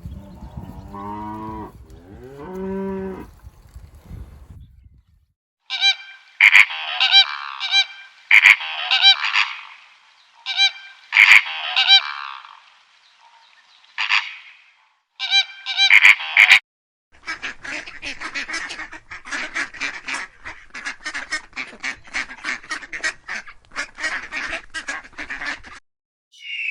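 Geese honking: loud, harsh honks in short groups, then a long run of rapid, repeated calls. A lower, wavering call comes first, in the opening few seconds.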